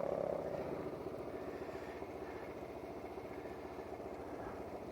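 Motorcycle engine idling steadily, with even firing pulses; a higher engine note fades away within the first half-second.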